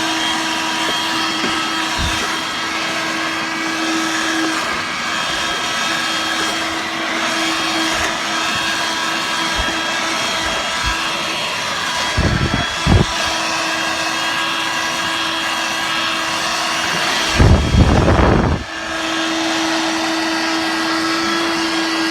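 Hoover Dirt Devil Vibe corded stick vacuum, in handheld mode, running with a steady motor whine while sucking up cat litter. It gives louder bursts of noise about twelve seconds in and again near eighteen seconds, as litter is pulled into the nozzle.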